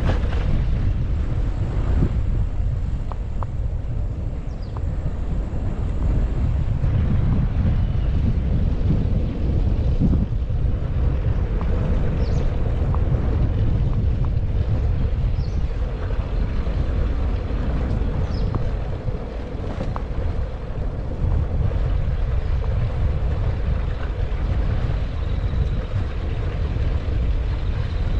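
Wind buffeting the microphone of a bike-mounted GoPro while cycling, a steady low rumble, with a few faint clicks and rattles now and then.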